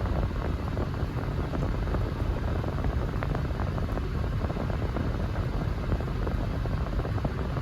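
Steady low rumble of a 2021 Toyota Tacoma driving through snow: engine and all-terrain tyre road noise, even throughout.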